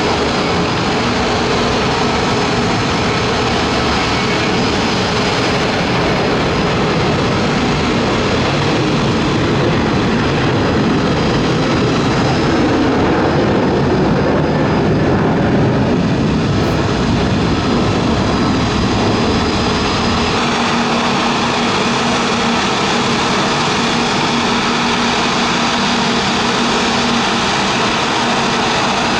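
Airbus A320neo jet engines running at idle as the airliner taxis in to the gate: a steady engine rush with faint whining tones. It swells slightly midway, and the low rumble falls away about twenty seconds in.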